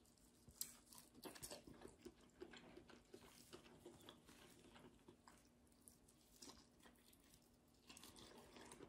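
Faint, irregular chewing clicks of a person eating a bite of barbecue-sauced pork sparerib, with a few small crunches.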